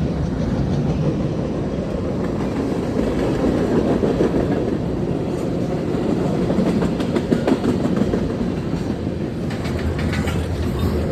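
A long train passing close by: a steady rumble of rolling wagons, with wheel clicks over the rails in the second half.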